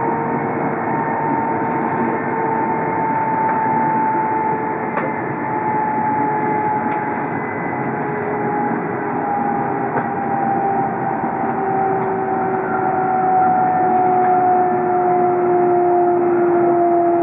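Tohoku Shinkansen train running at speed, heard inside the passenger car: a steady rushing running noise with a whine that slowly falls in pitch.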